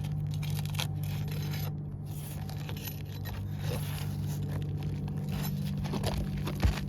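Brittle roof shingle scraping, crackling and tearing as a tool works under it to lift the nails, with scattered clicks and a single thump near the end. A steady low hum runs underneath.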